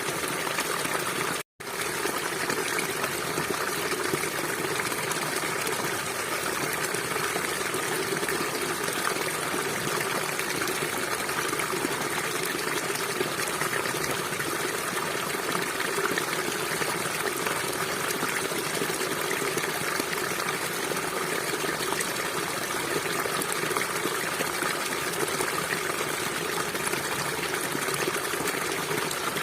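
River water flowing steadily. The sound cuts out to silence for a split second about one and a half seconds in.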